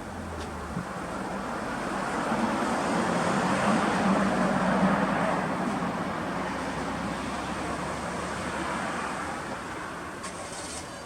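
Motor vehicle noise that swells to a peak about four to five seconds in and then fades away.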